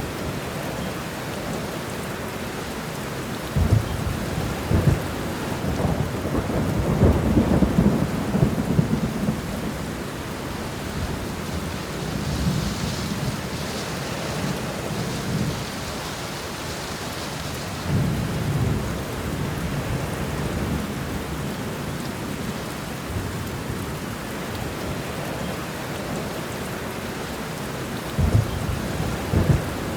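Steady heavy rain with thunder rolling several times. The longest and loudest roll starts sharply about four seconds in and rumbles on for about five seconds; shorter rolls come around the middle and near the end.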